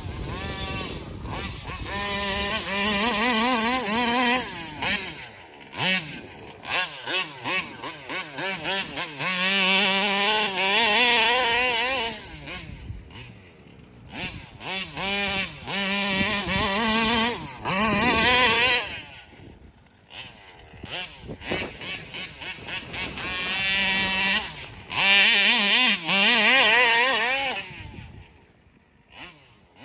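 Taylor RC 35 cc reed-valve two-stroke engine in a gas RC car, revving hard in about four bursts of two to three seconds, with runs of quick throttle blips and dips to idle in between; the pitch wavers as the car is driven.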